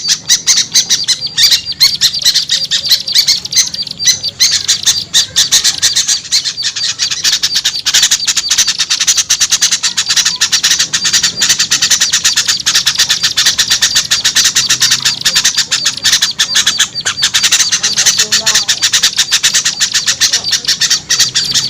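Dense, unbroken chattering of many small songbirds calling rapidly over one another: a mixed bird-lure recording of noisy small-bird calls, used to draw small birds down.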